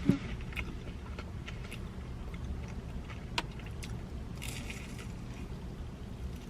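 Quiet close-up eating of a Korean-style corn dog: soft chewing clicks and a short crisp crunch a little past the middle, over a steady low hum.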